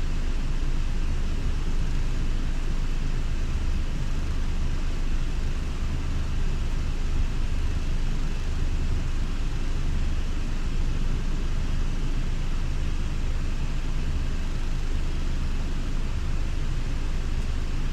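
Scania Irizar i6S coach's engine running steadily at low revs while the coach is manoeuvred, a low hum under an even rumble of road and mechanical noise.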